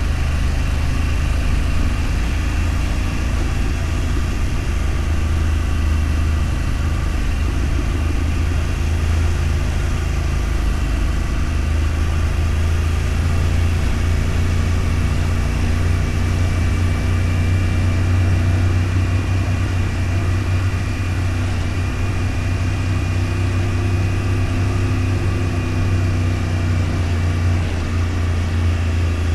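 Vehicle engine running steadily at an even speed, a continuous low hum with small slow shifts in pitch, with road noise.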